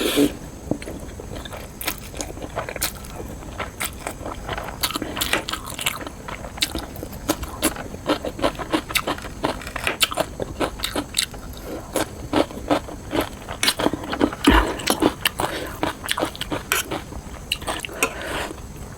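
Close-up eating sounds: chewing and biting with many short, irregular crisp clicks and crunches.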